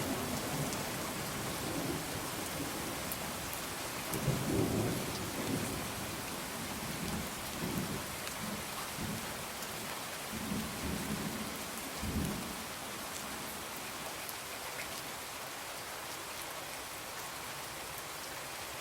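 Steady rain falling on a window, with low rolling thunder that swells several times and dies away about two-thirds of the way through, leaving only the rain.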